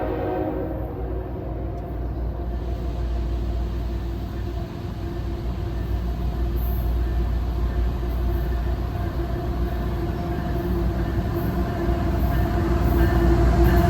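Train running by with a steady low rumble, and a steady high squeal of wheels on the rails that swells near the end.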